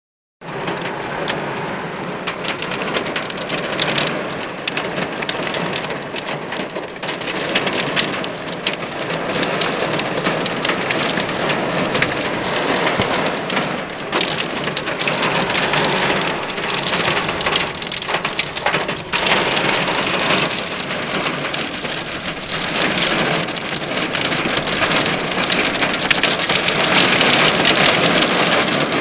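Hailstones pelting a car's body in a dense, continuous clatter of small impacts, like corn popping, getting heavier near the end.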